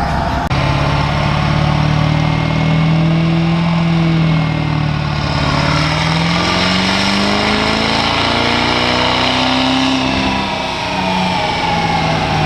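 Turbo diesel pickup truck engine revving hard under load on a chassis dyno. Its pitch climbs, falls back about halfway through and again near the end, then climbs again, with a higher whine riding above it.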